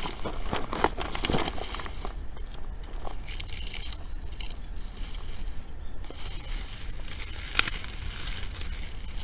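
Outdoor wood fire crackling with irregular sharp snaps, one louder pop about seven and a half seconds in; dry fuel is burning well.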